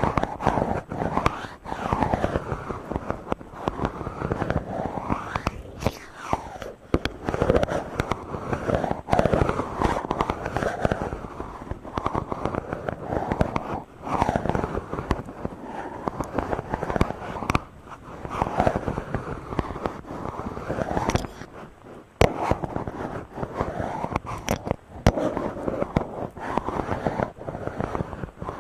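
Hands rubbing directly on a microphone: a dense crackling scratch that swells and fades in repeated strokes every second or two, with sharp clicks scattered through it and a brief pause about three-quarters of the way in.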